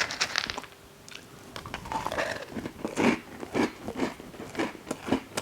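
Close-up chewing of crunchy Reese's Puffs cereal: a burst of crunches at the start, then steady crunching chews about two a second from about halfway through.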